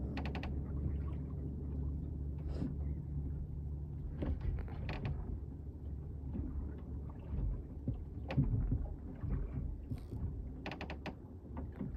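A rowed fishing boat's oars creaking and knocking in their oarlocks, with a few short clusters of sharp clicks, over a steady low rumble.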